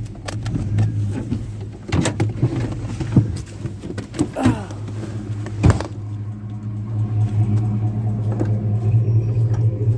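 A vehicle engine running with a steady low hum. Several sharp knocks and clanks come through it about two, three, four and a half and nearly six seconds in.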